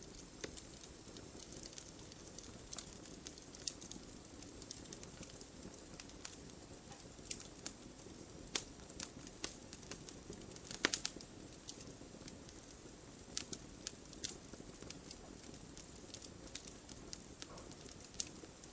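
Wood fire crackling: irregular sharp pops and snaps over a steady low rush, with the loudest snap about eleven seconds in.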